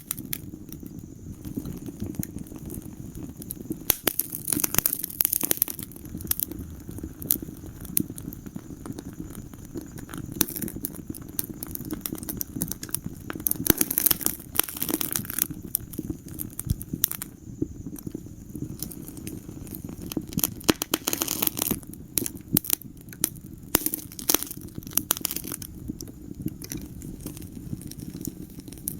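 Wood fire crackling in a fireplace: irregular sharp pops and snaps, bunched in flurries every few seconds, over a steady low rumble of the burning flames.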